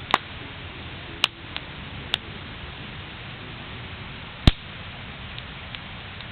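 Wood bonfire crackling: a handful of sharp, irregular pops over a steady hiss, the loudest pop about four and a half seconds in.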